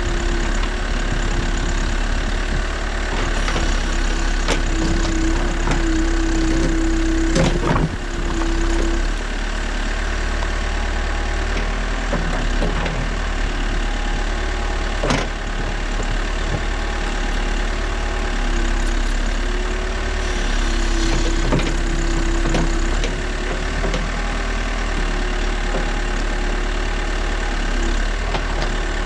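New Holland backhoe loader's diesel engine running steadily, with a humming tone that shifts a little in pitch. There are sharp knocks about 7 seconds in and again about 15 seconds in.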